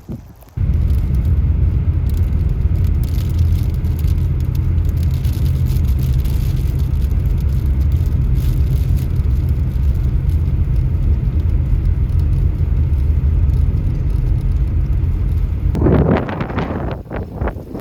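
A motor vehicle's engine running at a steady speed, a low drone that cuts in abruptly about half a second in. Near the end it gives way to gusting wind on the microphone.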